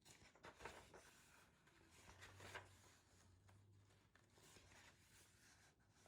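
Near silence: faint scratchy rustling in a quiet room, with a low hum for a couple of seconds in the middle.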